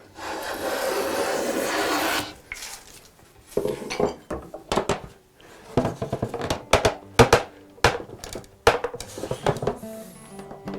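One long scraping stroke of a hand tool across wood, then a string of sharp wooden and metal knocks and clatters as tools and the workpiece are handled, a few with a short ring.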